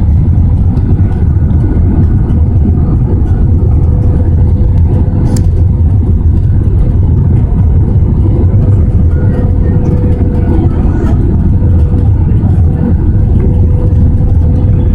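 Loud, steady rumble of engine and airflow noise inside the cabin of an Airbus A320 airliner, with a faint steady hum above it and a single brief click about five seconds in.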